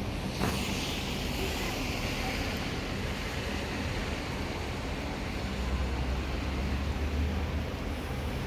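Heavy rain and wind: a steady hiss of rain with gusts buffeting the microphone. A deep low rumble swells in the second half.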